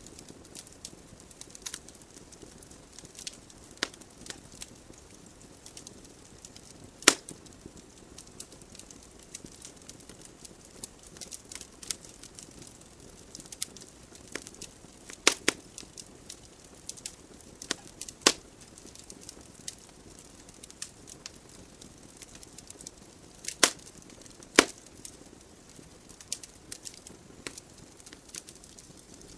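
Wood fire burning in a fireplace: a low steady hiss of flames with scattered crackles and several loud sharp pops from the burning logs.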